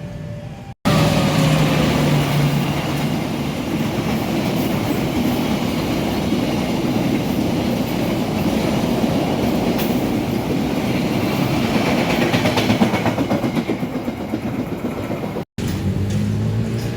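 A train passing close by on the station tracks: a loud steady rumble of wheels on rail with a rapid clacking flutter near the end. It starts abruptly about a second in and cuts off abruptly near the end.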